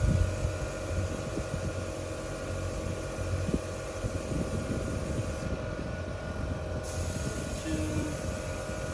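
ARB twin 12-volt on-board air compressor running steadily with a constant whine, inflating a tire through a hose-mounted tire inflator.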